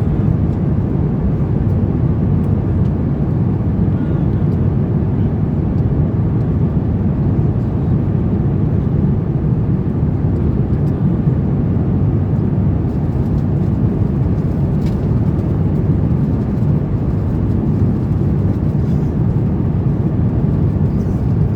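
Airbus A350-900 cabin noise in flight: a steady low rumble of airflow and engines heard from an economy seat.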